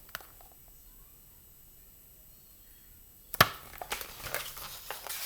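Quiet room tone for about three seconds, then a sharp knock about three and a half seconds in, followed by a run of lighter clicks and rustles.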